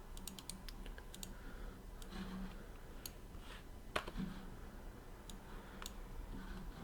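Faint, scattered clicks of a computer mouse and keyboard, with one sharper click about four seconds in.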